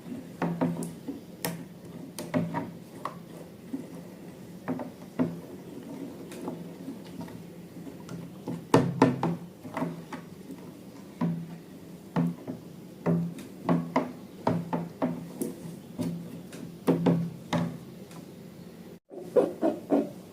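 Slime being handled and squished by hand, giving irregular sticky pops and clicks, with a short cut to silence near the end.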